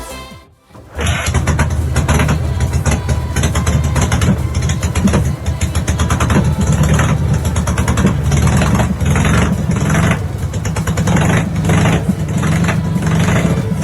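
Dnepr motorcycle's flat-twin engine running, coming in about a second in and carrying on steadily with repeated swells.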